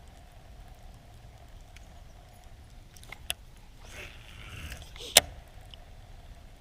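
Two sharp knocks, a small one about three seconds in and a louder one about five seconds in, with a brief rustle between them, over a steady low rumble.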